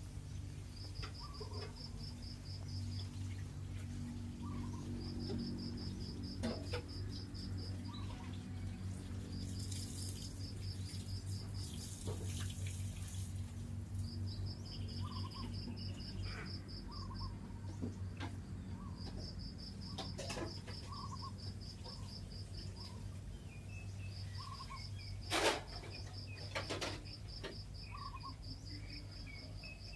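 Background ambience: a high, rapid trill repeated about every four seconds over a steady low hum. Short fainter chirps come between the trills, and two sharp knocks near the end are the loudest sounds.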